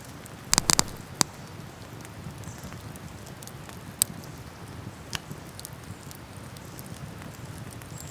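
Wood campfire crackling: a quick cluster of sharp pops about half a second in, then single pops at about one, four and five seconds, over a steady low rush.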